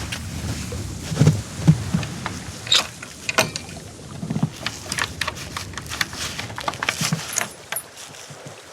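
Footsteps crunching in snow at an uneven pace, with sharp clicks and a steady wind hiss.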